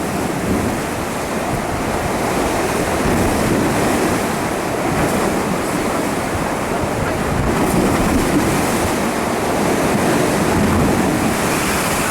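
Tropical storm surf crashing steadily, with strong wind blowing and rumbling on the microphone.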